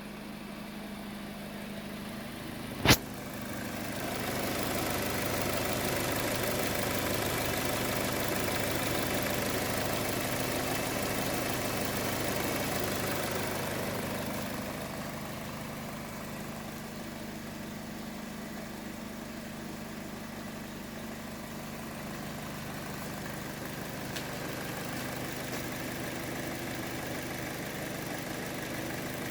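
Kia Sportage engine running at a steady idle, with one sharp click about three seconds in. The sound grows louder for about ten seconds, then settles back to a quieter idle.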